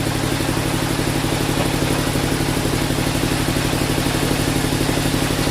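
An engine running steadily at a constant speed with a fast, even throb.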